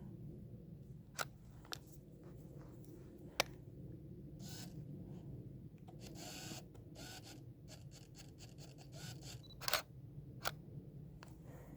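Canon EOS 1200D DSLR shutter clicking a few times, single sharp clicks spaced seconds apart, the loudest near the end, with short rustles in between.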